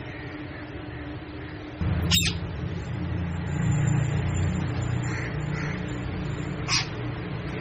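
Parrot giving two short, sharp screeches about four and a half seconds apart, over a steady low rumble.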